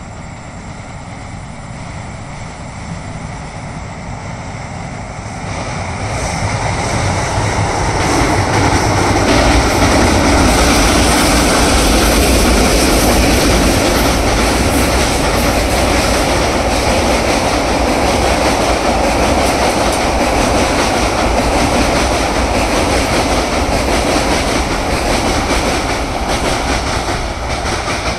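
Passenger train crossing a steel girder bridge, its wheels clattering rhythmically over the rail joints and the deck with a heavy rumble. It grows louder over the first ten seconds or so, then stays steady and loud as the coaches pass overhead.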